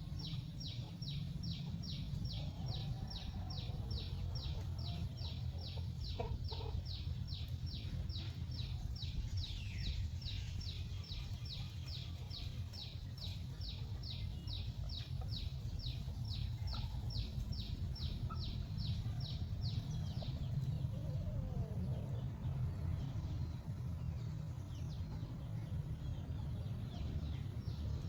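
A high chirping note repeated evenly, two to three times a second, that stops about twenty seconds in. Under it runs a steady low rumble, with a few faint chicken clucks.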